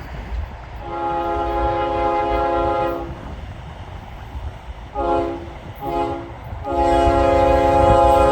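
Approaching freight locomotive sounding its multi-note air horn: one long blast, two short blasts, then another long blast that is still going at the end, over the low rumble of the engine and train.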